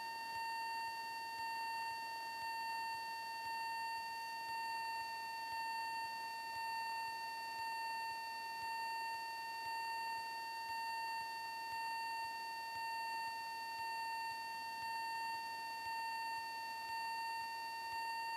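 A steady, unwavering high-pitched electronic whine on one pitch, with faint hiss, in the aircraft's headset/intercom audio while the radio is silent.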